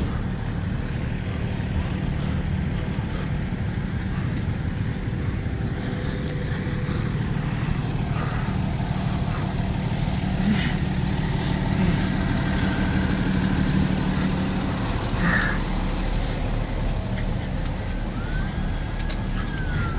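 A large vehicle's engine running steadily, with street noise and a few faint clanks. A siren begins to wail faintly near the end.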